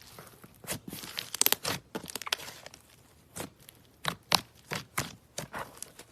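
Slime with clay mixed in being kneaded and squeezed by hand, giving irregular sticky clicks and pops: a quick cluster in the first couple of seconds, then single snaps spaced out.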